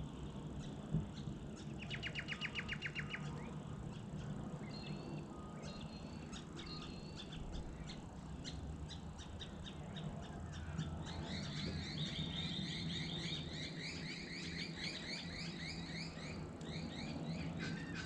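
Wild birds calling: a quick trill about two seconds in, scattered short chirps, then a long run of rapid repeated notes through the second half, over a steady low hum.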